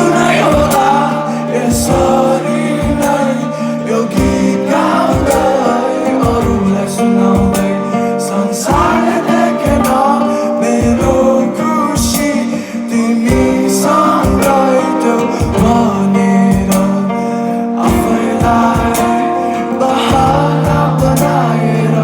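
Live band playing a song with singing, guitar and a steady drum beat.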